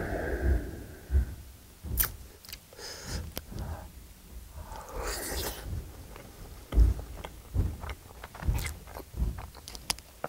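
A person biting into a whole block of pan-fried Spam and chewing it: scattered wet mouth clicks and smacks that come thicker in the second half.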